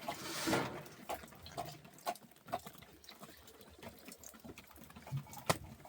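A short splash or pour of water in the first second, then scattered small knocks and clicks, with one sharper click near the end.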